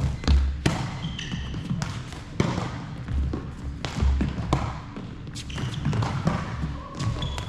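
A doubles rally in a racket sport: a string of sharp hits about every half second to a second, some with short high squeaks between them.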